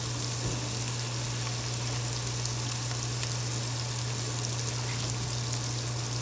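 Bacon, onion and bell pepper frying in oil in a pot: a steady sizzle with a few faint pops, over a constant low hum.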